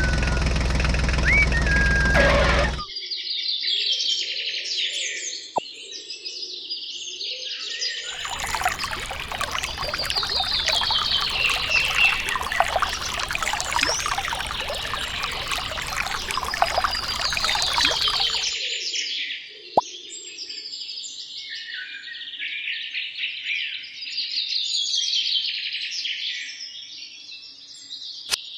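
Birds chirping and twittering throughout. A loud steady running noise cuts off abruptly about three seconds in, and from about eight to eighteen seconds a loud rushing noise lies under the birdsong.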